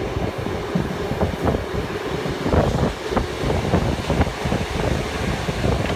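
Passenger train running along the line: a steady rumble of wheels on the rails with irregular clattering and rattling, heard at an open carriage window.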